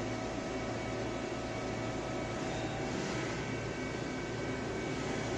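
Steady hum of running CNC machinery, with several constant whining tones over an even noise.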